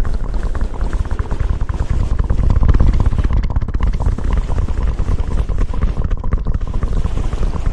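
Close-miked ASMR rubbing and rustling right against the microphone: a dense run of rapid crackles over a steady low rumble.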